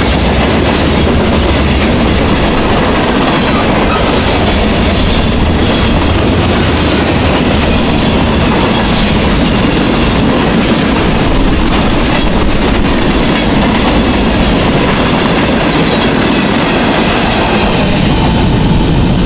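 Freight train cars of a Norfolk Southern manifest train, covered hoppers and flatcars, rolling past at speed. Their steel wheels run on the rails in a loud, steady rumble.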